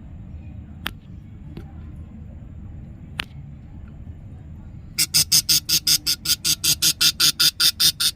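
Budgerigar chick calling in a fast run of harsh chirps, about seven a second, starting about five seconds in and still going at the end. Two sharp clicks come earlier.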